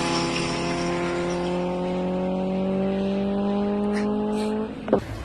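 A car engine running at steady high revs, its pitch creeping slowly upward as it pulls, then cutting off abruptly near the end, followed by a brief sharp sound.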